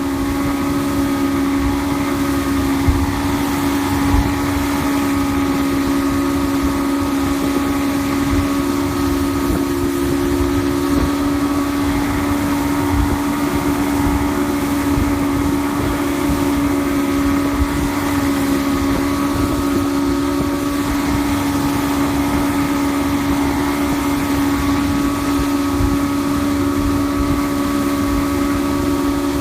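Evinrude E-TEC 115 hp two-stroke outboard running steadily at a constant speed, its pitch unchanging, with wind buffeting the microphone.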